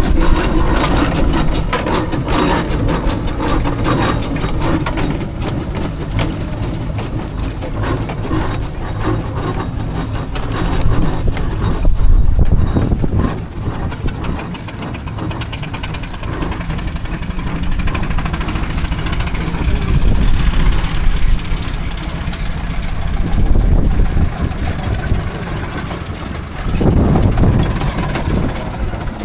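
Steam road engines running past with a rapid, steady beat and mechanical clatter. The sound swells louder as engines come close, most plainly about a third of the way in and again near the end.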